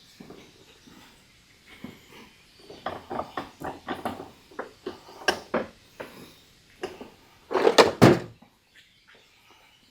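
Hand work on a removed ATV axle: a run of quick taps and clunks, then a louder clatter with a heavy thud about three-quarters of the way through.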